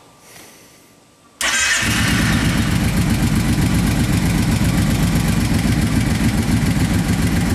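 Kawasaki Brute Force 650 ATV's V-twin engine starting about a second and a half in, catching at once and then running steadily and loudly. It is a cold start without choke, so the engine is not running happily.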